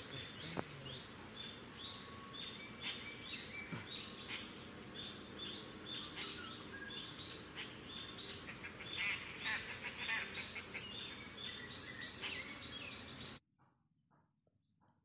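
Birds chirping: short, high calls repeated several times a second over a steady outdoor background hiss, cutting off suddenly near the end.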